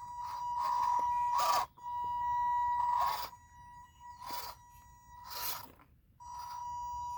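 Electric drive of an MN82 1/12-scale RC crawler truck whining at a steady high pitch under load while the truck is stuck on rocks, with short bursts of scraping from the tires on rock. The whine cuts out for about a second around the middle, then comes back.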